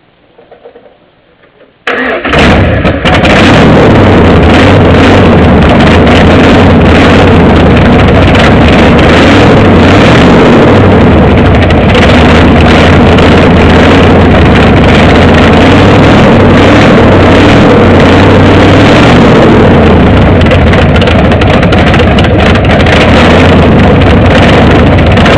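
Go-kart engine starting up about two seconds in, then running loud and steady with its pitch wavering slightly.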